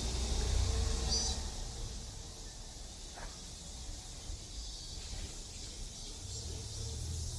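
A steady high-pitched drone of insects, typical of summer cicadas, over a low rumble that fades after the first second or so and returns near the end.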